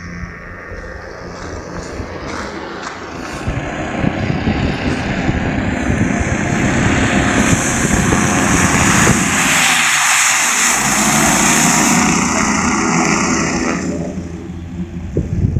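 Airboat's engine and air propeller running as the boat passes by: it grows louder, is loudest about ten seconds in with a sweep in tone as it goes past, then fades.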